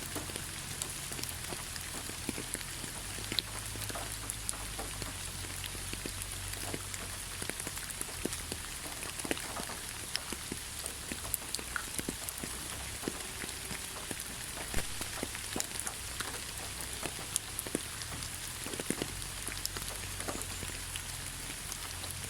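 Steady rain falling through a pine forest, with many single drops ticking close by over an even patter and a low rumble underneath.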